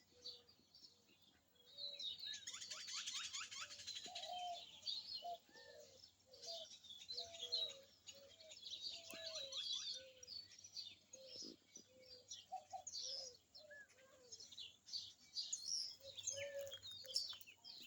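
Many birds chirping and calling together: a dense mix of high chirps and trills with shorter, lower calls repeating underneath. The chirping is thickest from about two seconds in to about five seconds in.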